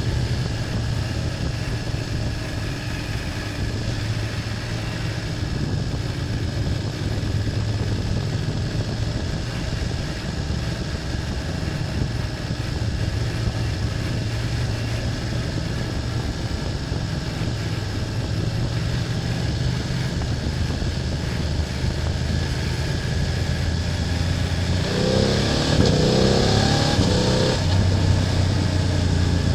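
BMW F800GS parallel-twin engine running steadily while riding, then, near the end, revving up in a few short rising steps as the bike accelerates, with more rushing hiss.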